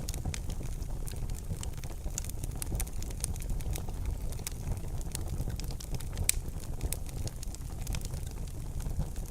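Wood fire crackling in a fireplace: irregular sharp pops and snaps over a steady low rumble, with one louder pop a little past halfway.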